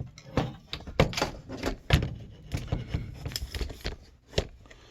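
Irregular knocks, clicks and scraping as the threads of an electric water heater's lower element port are cleaned, with a few sharper knocks standing out and the handling dying away near the end.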